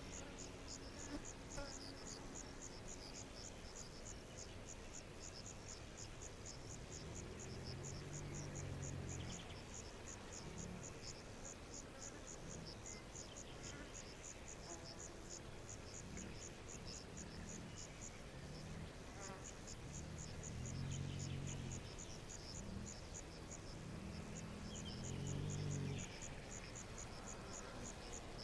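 Forest nature ambience: a rapid, steady high chirping pulsing several times a second, breaking off briefly twice. A low, drawn-out call rises above it four times, the loudest near the end.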